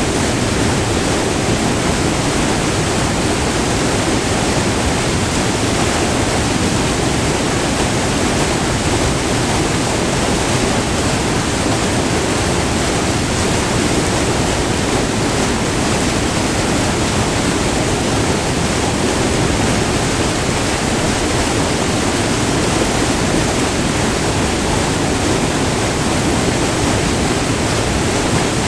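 Multi-tiered river waterfall rushing over rocks, heard up close: a steady, unbroken roar of falling white water.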